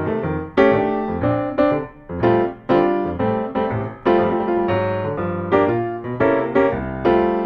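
Background piano music: a steady run of struck notes and chords, each one ringing and dying away.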